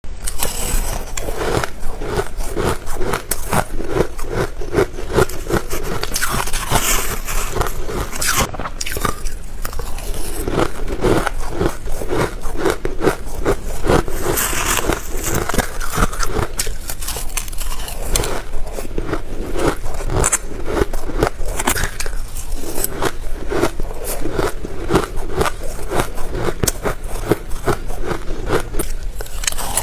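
Soft white freezer frost being bitten and chewed close to the microphone: dense, continuous crunching.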